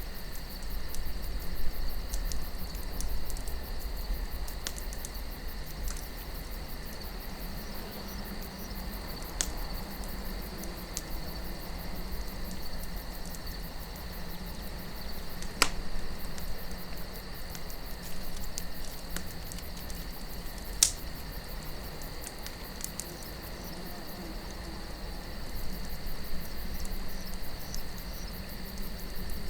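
Wood campfire crackling with fine continuous ticks and a few sharp pops, the loudest about halfway and two-thirds through, over a steady low wind rumble and a constant high trill.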